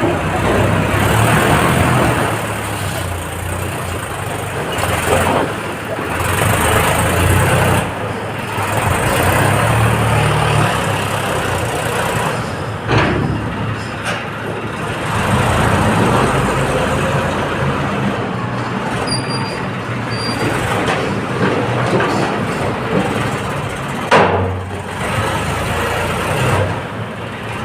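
Massey Ferguson tractor's diesel engine running hard under load, its note swelling and easing several times, with a few sharp knocks or clanks about halfway through and again near the end.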